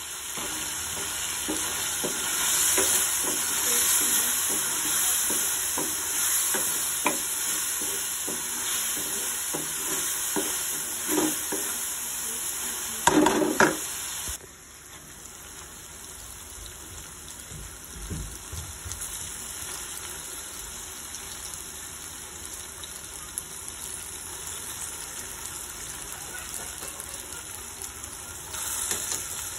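Chicken and tomato masala sizzling in an aluminium wok while a wooden spatula stirs it, with scattered knocks and a louder clatter of the spatula against the pan about halfway through. The sizzle turns quieter soon after.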